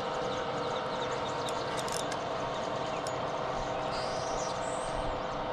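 A steady mechanical hum, with birds chirping over it.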